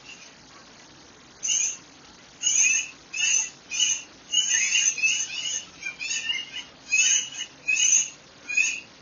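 A bird calling in a string of short, high notes, about two a second, starting a second and a half in.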